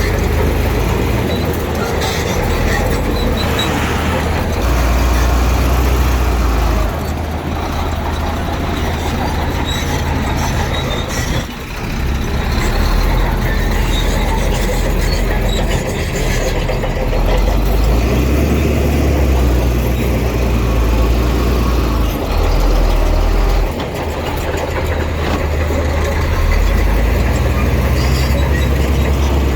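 Heavy diesel engine of earthmoving machinery running and working under changing load, its low engine note swelling and easing several times, with a brief drop about eleven seconds in.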